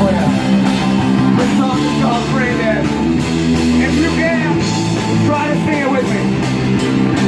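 Rock band playing live: a guitar over a steady drum beat, with bending melodic lines.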